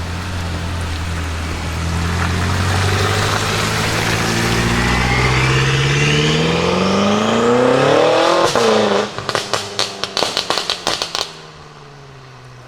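BMW M5 F10's twin-turbo V8, breathing through catless downpipes and an M Performance exhaust, pulling hard with its note climbing steadily for about eight seconds. It then cuts off sharply into a rapid string of exhaust crackles and pops lasting about two seconds, after which the engine note falls away much quieter.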